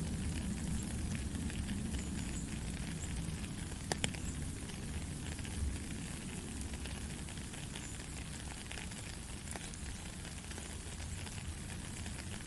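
Steady rain falling, a dense patter of fine drop ticks over a low rumble, with one sharper tick about four seconds in.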